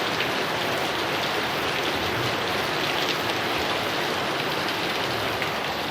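Heavy rain falling steadily on a surface, an even hiss of many drops with no thunder.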